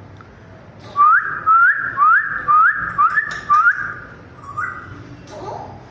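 African grey parrot whistling a series of six quick rising notes, about two a second, followed by one fainter note.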